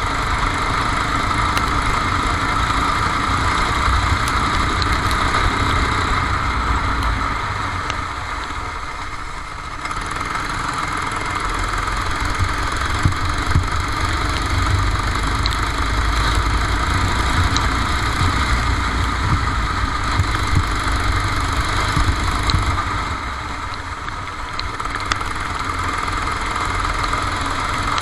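Racing kart's engine running steadily, heard onboard, with a low rumble underneath. It eases off twice, around eight seconds in and again a little past twenty-two seconds, then picks up again.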